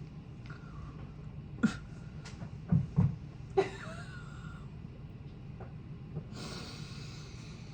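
Close-miked eating sounds: several sharp, wet mouth clicks and smacks in the first few seconds, then a breathy hiss lasting about a second near the end, over a steady low hum.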